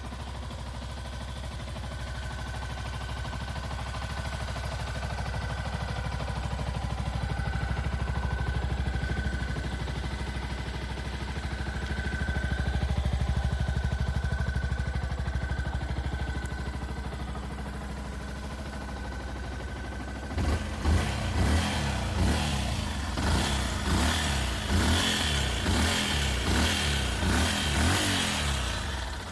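Yamaha WR125's single-cylinder four-stroke engine idling steadily, then, about two-thirds of the way in, revved in a quick series of short throttle blips before settling back to idle near the end.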